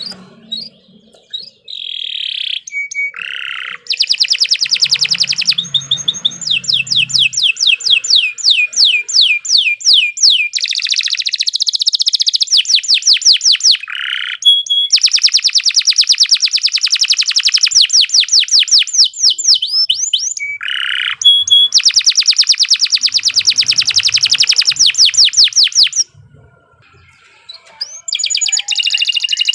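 Domestic canary singing long, loud rolling trills of rapidly repeated high notes, broken by brief pauses and a few single chirps. This is the sustained, loud (gacor) song used as a master recording to teach other canaries.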